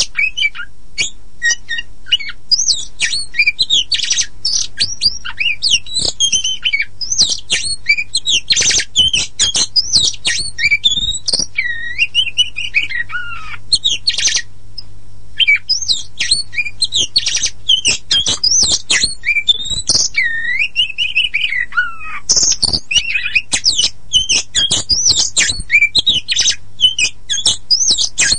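Kacer poci (pied Oriental magpie-robin) singing a long, varied song of rapid whistles, sweeping up-and-down glides and harsh chattering notes, with one short pause about halfway through.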